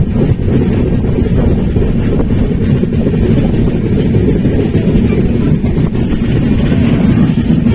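Steady rumble of a moving passenger train, heard from on board the coach.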